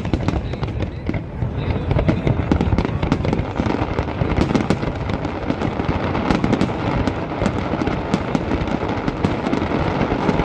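Aerial fireworks bursting in rapid succession, with many overlapping booms and crackles and no pause between them.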